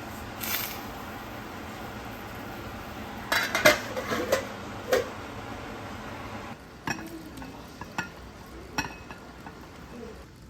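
Dishes and cutlery clinking as they are handled: a quick cluster of clinks, then a few single sharp knocks, over a steady hiss that drops away about two-thirds of the way through.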